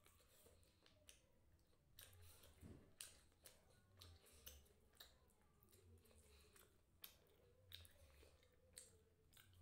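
Faint close-up eating sounds: chewing of noodles and chicken, with repeated small lip smacks and finger-sucking clicks.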